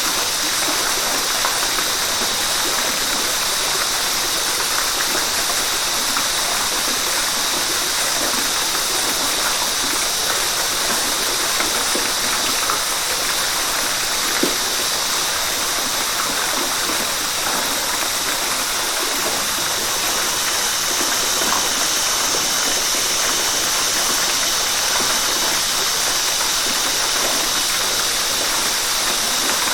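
River water rushing and splashing over rocks in a steady, unbroken hiss, with small splashes flecking through it.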